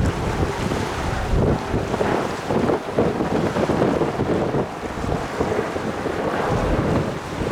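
Wind buffeting the microphone, a loud, uneven rumble with gusty low thumps throughout.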